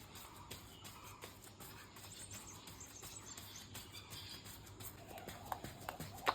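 Footsteps walking outdoors at a steady pace, faint, with light bird chirps in the background.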